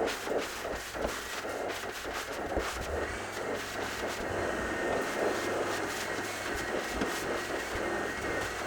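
Carpet-cleaning vacuum machine running steadily with a thin high whine and a low hum, its sound pulsing unevenly as it works the carpet.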